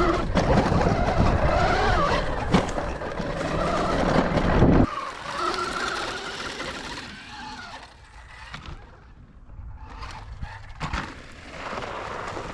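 Rawrr Mantis X electric dirt bike accelerating, its motor whine rising and falling in pitch over loud wind and tyre rumble. The low rumble cuts off suddenly about five seconds in, leaving a quieter whine that fades, with a few sharp knocks near the end.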